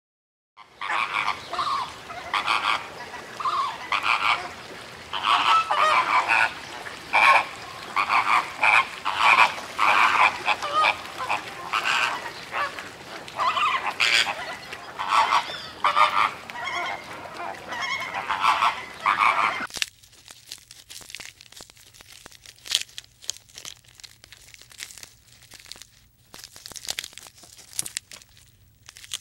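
A group of animals calling loudly and repeatedly, many overlapping calls a second. The calls cut off abruptly about twenty seconds in, leaving faint scattered clicking and crackling.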